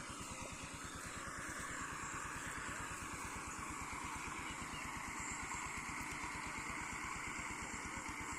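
Small engine idling steadily, a rapid even thumping of about ten beats a second.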